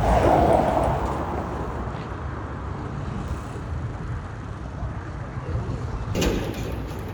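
Motor vehicle road noise: a steady rumble of engine and tyres, swelling louder in the first second, with a brief sharp noise about six seconds in.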